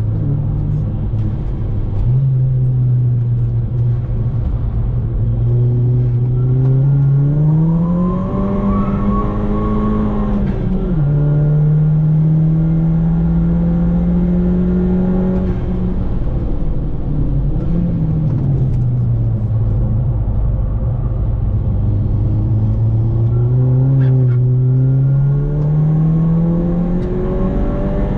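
Volkswagen Golf MK5 GTI's 2.0-litre turbocharged four-cylinder engine, heard from inside the cabin under track driving. The revs climb for several seconds, drop sharply at an upshift about eleven seconds in, and hold steady. They fall away around sixteen to twenty seconds as the driver lifts off, then climb again near the end, over a constant rumble of road noise.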